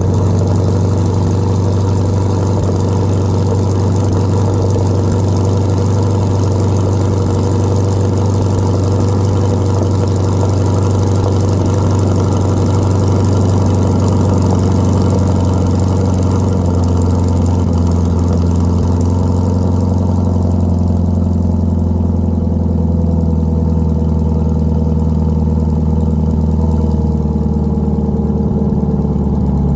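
Chevrolet C8 Corvette V8 idling steadily through an aftermarket center-exit track exhaust, with a loud, even low exhaust note.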